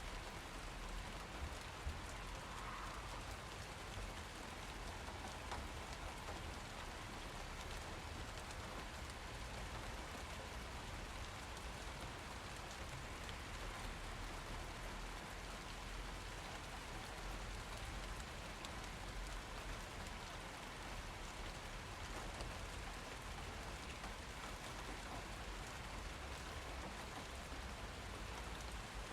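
Steady rain falling and pattering on surfaces, an even hiss with a low rumble beneath and a few sharper drops near the start.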